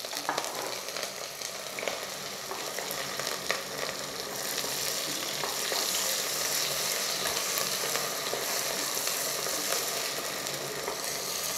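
Shallots, garlic and curry leaves sizzling in hot coconut oil in a stainless-steel pressure cooker, stirred with a wooden spatula, with small crackles. The sizzle grows louder about four seconds in, as chopped green chillies go into the oil.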